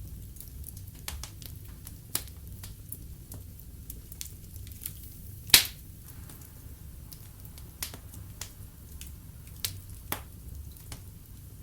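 Log fire crackling in a fireplace: irregular sharp pops and snaps over a low steady rumble, with one loud pop about halfway through.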